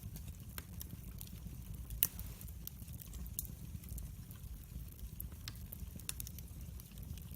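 Wood fire burning in a fireplace, crackling with irregular sharp pops and snaps over a low rumble, one louder pop about two seconds in.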